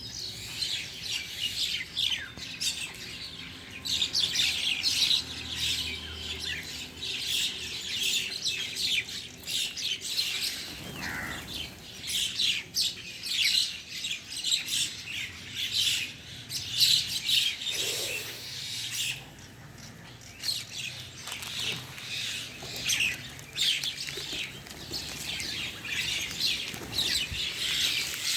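Small pet bird chirping in quick runs of short, high notes, with a brief pause about two-thirds of the way through.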